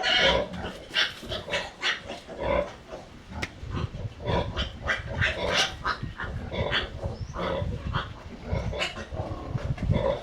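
Animals calling: many short grunts and squeals in quick succession.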